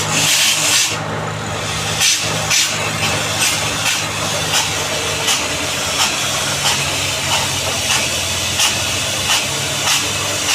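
Borewell drilling rig's engine running steadily, with a short sharp burst repeating about every two-thirds of a second.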